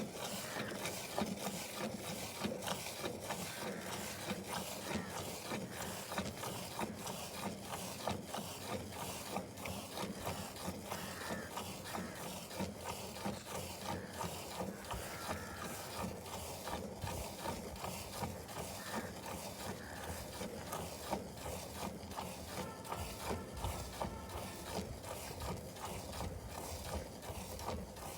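A cow being milked: a rapid, even rhythm of short milking strokes that goes on without a break.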